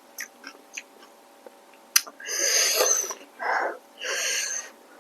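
Close-miked eating sounds: small wet mouth clicks of chewing, then three hissing slurps, the first and longest about two seconds in.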